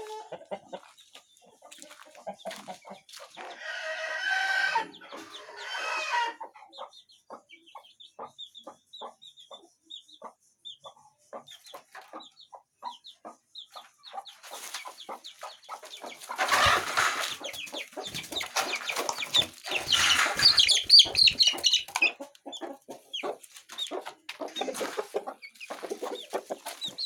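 Parrot-beak chickens clucking, with a drawn-out crow-like call a few seconds in and a shorter one just after. A louder stretch of rustling, scuffling noise comes in the middle.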